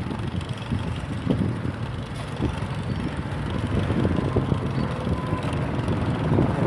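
Wind on the microphone over the rumble and small rattling knocks of a bicycle riding along pavement.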